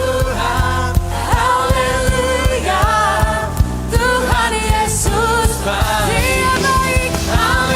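Live worship band playing with a full drum kit, a sung melody carried over the top.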